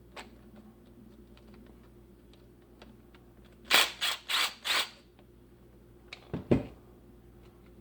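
Hand tools working bolts out of a reciprocating saw's metal gear housing: light clicking, then four quick sharp rasping strokes a little under halfway, and a couple of knocks ending in a thud as a tool or part is set down near the end.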